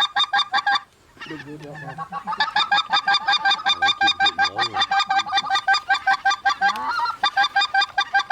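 Goose honking in a fast, even run of short calls, several a second, with a brief break about a second in and a few lower calls beneath.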